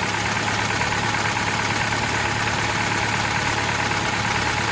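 Car engine idling steadily, with a constant low hum and an even hiss over it.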